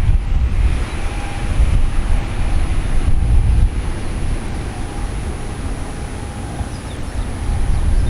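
Wind buffeting the microphone over the distant rumble and faint whine of a Boeing 737-500's CFM56 turbofan engines on landing approach. The rumble swells and eases unevenly, dipping somewhat in the second half.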